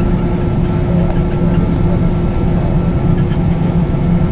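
Steady low rumble in the cabin of a Boeing 777-200 taxiing after landing, with an even engine and air-system hum carrying a couple of constant tones.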